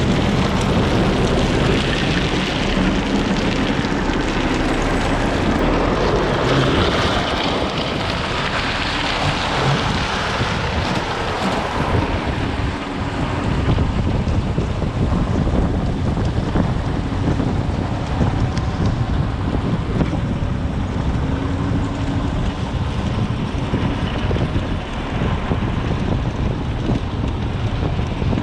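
Heavy track-works machinery running steadily, with wind buffeting the microphone.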